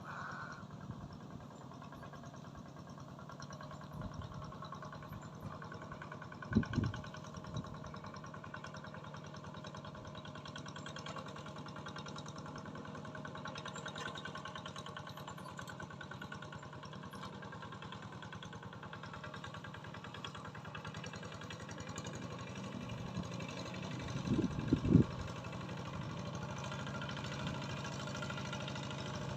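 An engine running steadily at a constant speed, with two brief low thumps, one about a quarter of the way through and one near the end.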